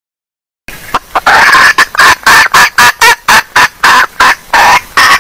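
Female red junglefowl hen calling: a rapid run of short, loud clucks, about three a second, starting just under a second in, as used for a lure call.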